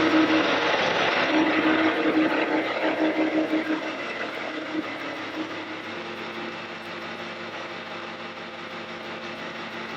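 Bobcat T66 compact track loader's diesel engine running, getting quieter over the first five or six seconds and then running steadily at the lower level.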